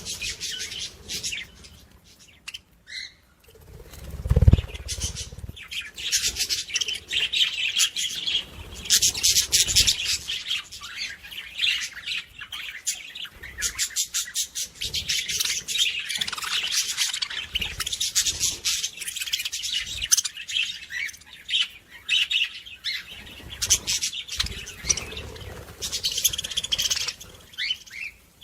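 Many small birds chirping and twittering together in a dense, continuous chorus. There is a single low thump about four seconds in.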